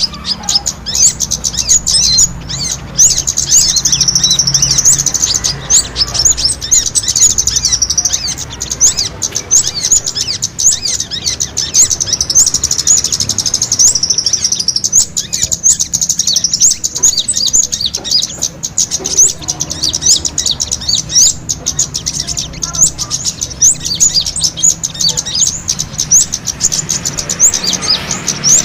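Small birds giving rapid, high-pitched chirping calls in a dense, unbroken stream. It is a bird-catching lure recording of small birds fighting.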